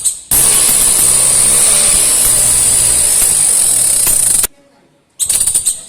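Scooter engine running at high revs, loud and harsh, for about four seconds, then cutting off abruptly. A shorter burst follows about a second later.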